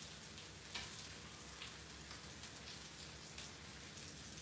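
Bacon and sausage patties frying on an indoor grill plate: a faint steady sizzle with scattered crackles and pops of spitting fat.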